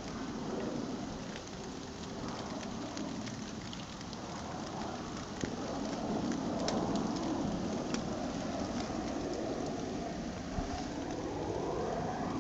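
Steady rain falling, with single drops ticking sharply, and a low rumble that swells midway and again near the end.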